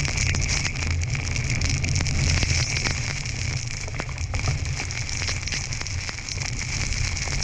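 Snowstorm wind rumbling and buffeting on the microphone, with a continuous crackle and patter of driven snow.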